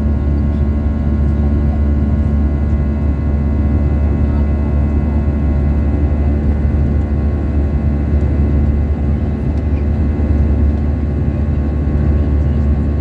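Steady jet engine and airflow drone inside the cabin of an Airbus A320-200 in flight: a strong low rumble with several steady hums layered over it.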